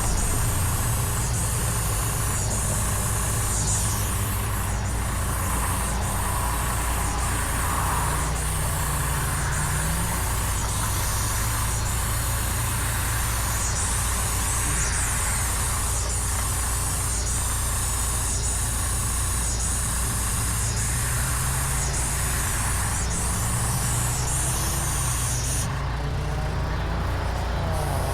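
Motorcycle engine running under way with steady wind and road noise; the engine note rises slightly a couple of times as the revs change.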